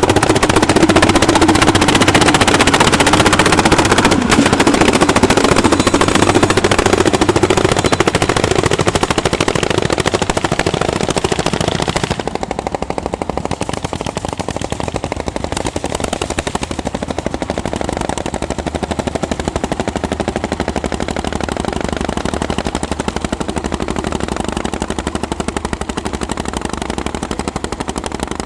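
Single-cylinder two-stroke hot-bulb tractor engines pulling a plough, a fast, unbroken run of sharp exhaust beats. The sound drops in level and loses its upper range about twelve seconds in.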